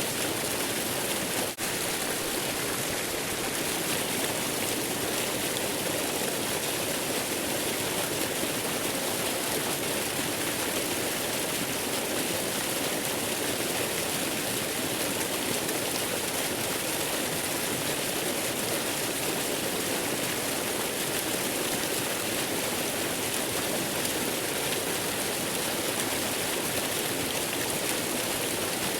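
Waterfall rushing steadily, an even hiss of falling water with no change in level, interrupted by a brief dropout about a second and a half in.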